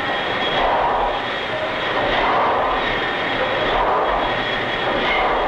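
A large steamboat's engine running in the engine room: a steady machine noise that swells and eases in a slow rhythm about every second and a half, with a faint steady whine above it.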